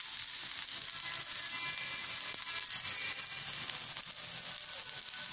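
Semolina-coated potato slices shallow-frying in oil in a frying pan on a low flame: a steady sizzle with fine crackling.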